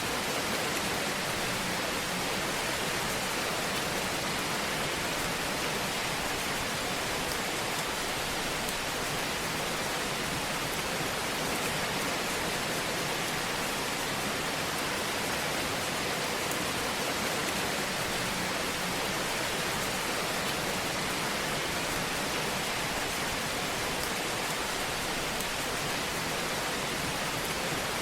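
Fire burning in a fireplace: a steady, even rushing hiss with faint light crackles.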